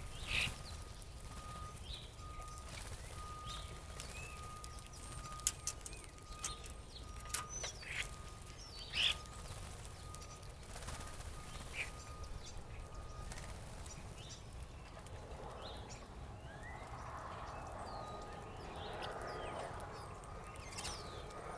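Blackbirds feeding: scattered short chirps and calls, with a few sharp clicks, over a faint steady high tone. About fifteen seconds in, a patch of busier, mixed chatter joins them.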